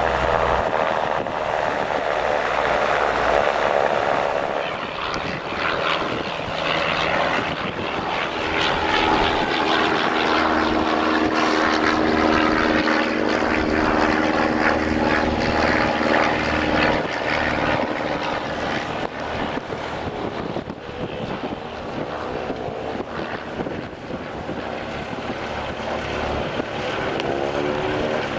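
Light piston-engined aircraft running close by, steady and loud, with its pitch shifting as it moves and sweeping near the end.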